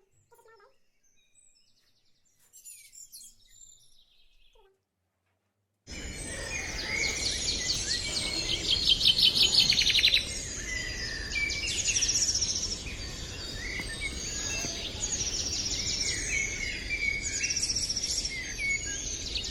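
Many songbirds chirping and trilling together in a dense chorus over a steady background hiss. It starts suddenly about six seconds in, after faint scattered small sounds and a moment of silence.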